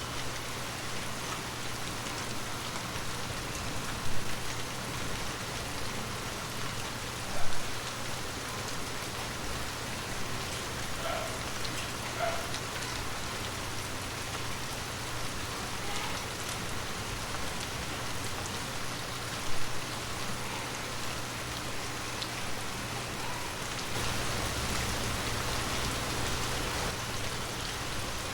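Heavy rain falling steadily, broken by three louder short knocks. The rain grows a little louder near the end.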